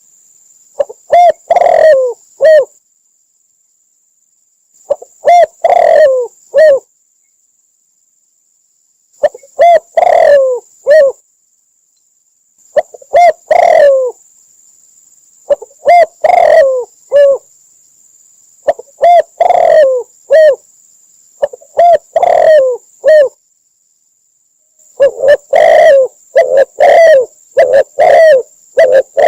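Spotted dove cooing: short phrases of three to five deep, husky coos, repeated over and over with pauses of a second or two between phrases. The last phrase, near the end, runs on longer with more coos.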